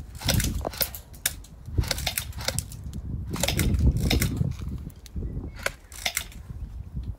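Airsoft guns firing BBs: sharp clicks and pops at irregular intervals, some in quick clusters, over low rumbling and rustling of movement.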